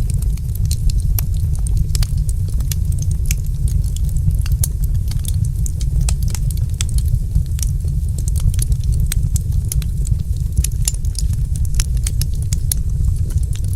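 Wood fire crackling, with frequent sharp, irregular pops and snaps over a steady low rumble of burning.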